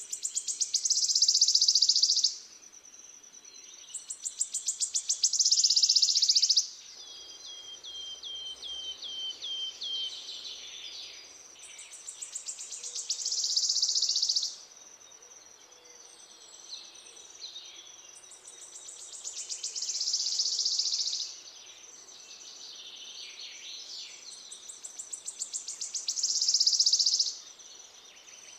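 A small songbird singing in repeated bouts of fast, high, buzzy trills, each about two seconds long, building in loudness and stopping abruptly, five times, with softer chirps in between. A steady high-pitched whine runs underneath.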